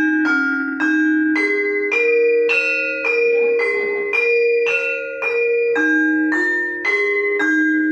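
Bronze demung, a gamelan metallophone, struck one bar at a time about twice a second, each note ringing on under the next. The notes climb up the scale and come back down, as when checking how the instrument sounds.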